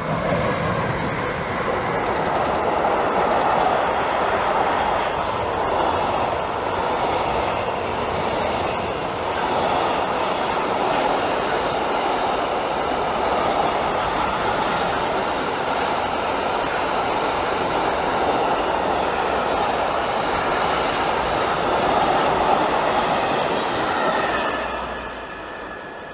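Long container freight train, double-headed by Siemens Vectron electric locomotives, passing close by: a loud, steady rumble and rush of wheels and wagons with faint clicking over the rail joints. It falls away sharply near the end as the last wagons go by.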